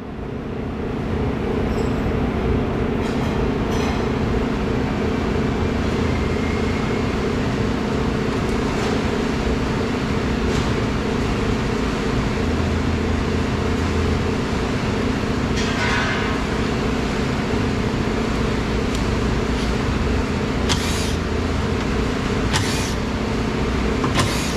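A steady mechanical hum with a few short clicks scattered through it.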